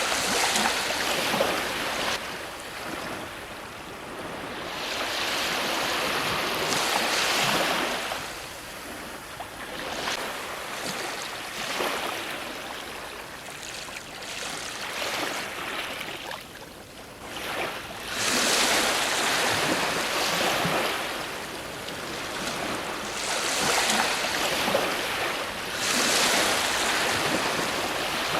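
Ocean waves breaking on a shore, the surf swelling and ebbing in several surges of rushing water.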